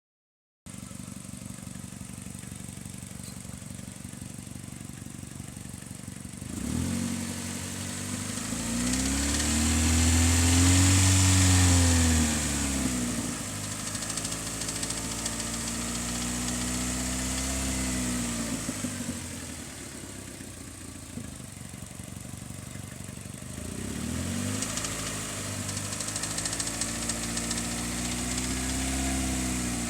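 2002 Hyundai Elantra's four-cylinder engine idling, then revved up and let back down three times, the first rev the highest. Under it runs a rattle whose source the owner cannot find.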